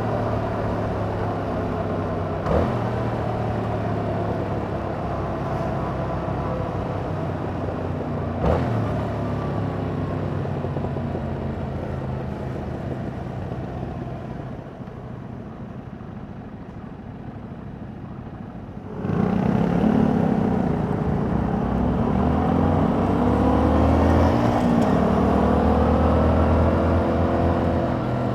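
2021 Yamaha MT-07 parallel-twin engine heard on board through its stock exhaust, running at road speed with two brief clicks early on. The sound falls away as the throttle closes midway, then picks up sharply about two-thirds of the way in, rising in pitch as the bike accelerates.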